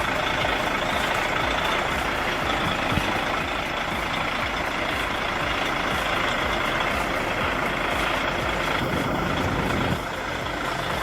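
Heavy truck's engine running steadily as it manoeuvres a trailer, with a brief drop in level near the end.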